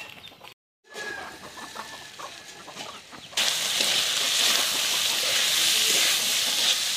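Hens clucking faintly, then about three and a half seconds in a sudden loud, steady sizzle as chicken, potato and cauliflower pieces fry in an open kadai and are stirred with a metal spoon.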